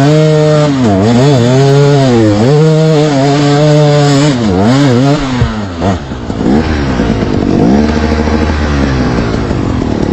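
Trail motorcycle engine revving up and down repeatedly, the throttle worked on and off as the bike struggles on a muddy slope.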